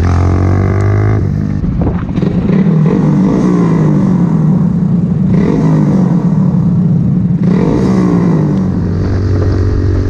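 Honda Grom's 125cc single-cylinder four-stroke engine holding a steady low note, then revving up with its pitch climbing and dropping several times as the bike pulls away and accelerates, settling back to a steady low note near the end.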